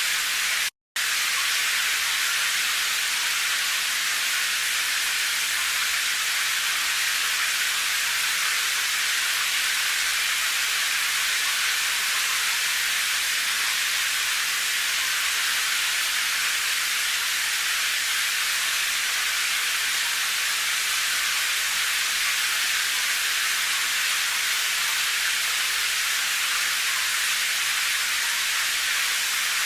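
Steady rain as a high, even hiss with no separate drops standing out. It cuts out completely for a split second just under a second in, then carries on unchanged.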